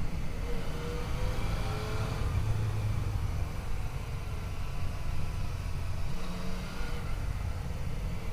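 Yamaha FJ-09's three-cylinder engine running under way, its note drifting up and down with the throttle, under heavy wind rumble on the microphone.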